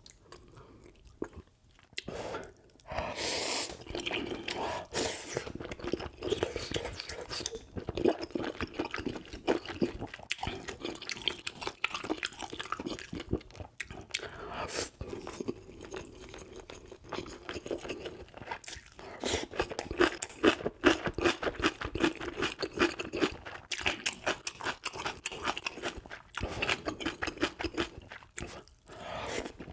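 Close-miked eating sounds: a person chewing noodles and rice from a spicy soft-tofu stew, with rapid wet smacking and chewing noises.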